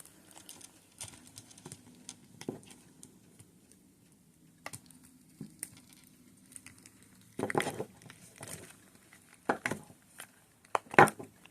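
A cured resin casting being worked out of its mold: scattered crinkling, rubbing and clicking handling noises. A louder rubbing burst comes about seven and a half seconds in, and a few sharp clicks near the end.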